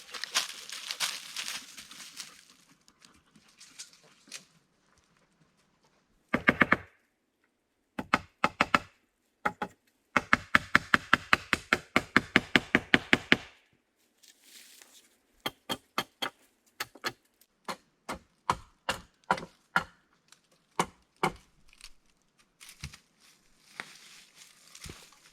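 Wood being worked with hand tools: a quick, even run of strokes for a few seconds in the middle, then separate knocks, each under a second apart.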